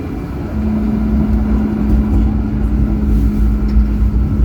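Tram running along the line: a steady low rumble, with a steady hum that sets in about half a second in.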